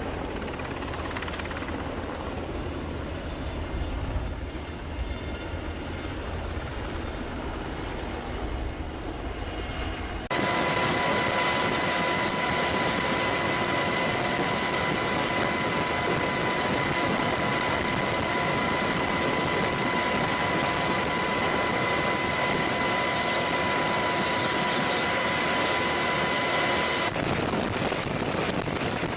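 Helicopter engine and rotor noise with a deep rumble. About a third of the way in, it cuts abruptly to a louder, steady hiss with a high steady whine, which changes again near the end.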